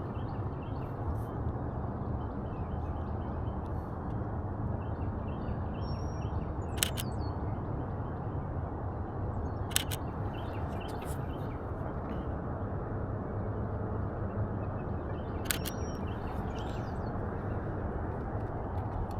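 Canon EOS RP shutter firing three times, sharp clicks about 7, 10 and 15 seconds in, over a steady low outdoor rumble with faint bird chirps.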